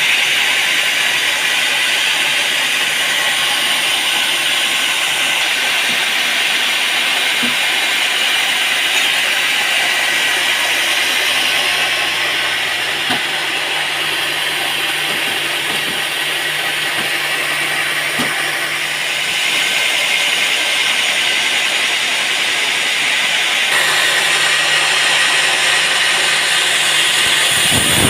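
Sawmill saw cutting through a teak log: a loud, steady hissing cut with a low motor hum underneath that drops out for a while in the middle and again near the end.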